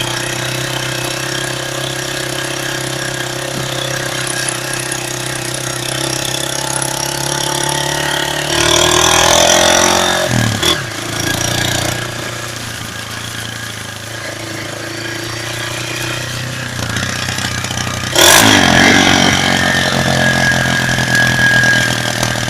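Hail falling hard and drumming steadily, with a steady low hum underneath. It swells louder twice, about nine and eighteen seconds in.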